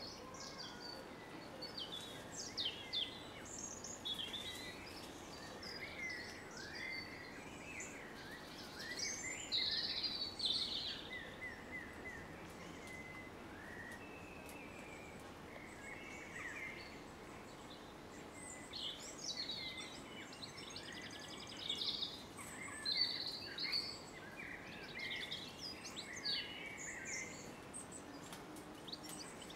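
Several small songbirds singing and calling in bursts of chirps and quick trills, over steady outdoor background noise.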